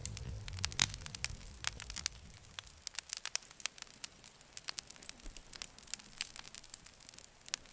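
Campfire crackling, with frequent sharp pops and snaps. A low rumble under it fades away in the first two or three seconds.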